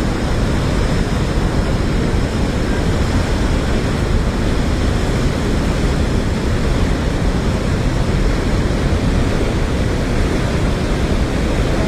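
Floodwater rushing: a loud, steady roar of fast-moving water.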